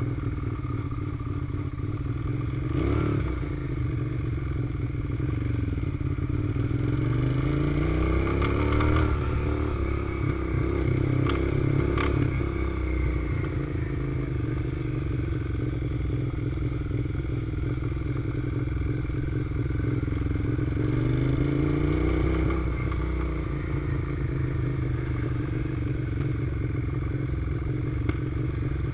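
Suzuki SV650's V-twin engine running under way. The engine pitch rises as the bike pulls, from about six to nine seconds in and again from about twenty to twenty-two seconds in, dropping back after each rise.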